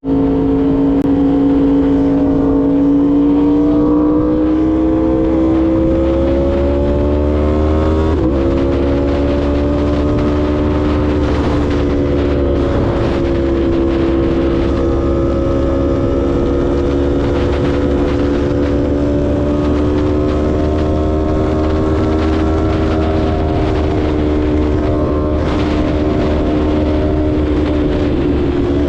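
Yamaha YZF-R1M's crossplane inline-four running at steady high revs while riding, with wind rumble underneath. The engine pitch climbs gently over the first few seconds, breaks briefly about eight seconds in, then holds nearly level.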